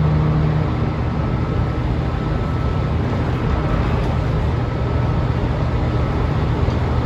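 Interior running noise of a JR Kyushu electric commuter train car: a steady, loud rumble from the wheels and underfloor equipment, with a faint steady whine above it.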